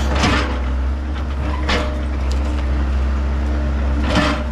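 A heavy demolition machine's engine running steadily, with three short crunches of debris being broken: one at the start, one under two seconds in and one near the end.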